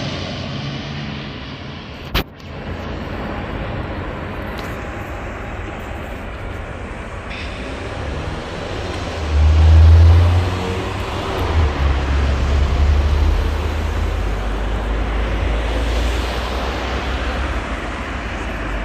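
Turboprop engines of an ATR 72-600 airliner running, a steady wide rushing noise. A sharp click about two seconds in, and heavy low rumbling from about nine seconds on.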